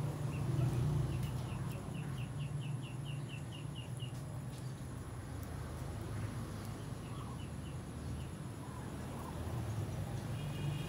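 A bird calling in a quick series of short high chirps, about four a second, then a few more after a pause, over a steady low hum.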